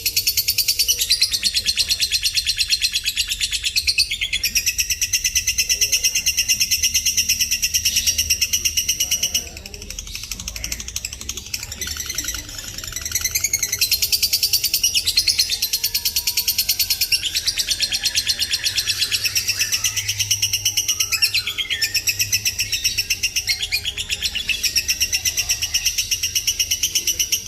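Lovebird chattering in long, rapid, high-pitched trills lasting several seconds each, with short pauses between them; for a few seconds around the middle the calls are quieter and broken up.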